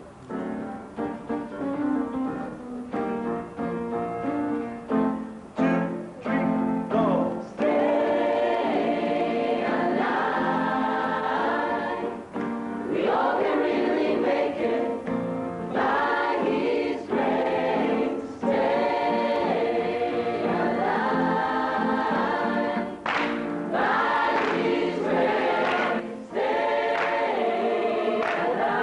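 Church choir singing a gospel song, softer at first and coming in fuller and louder about seven seconds in.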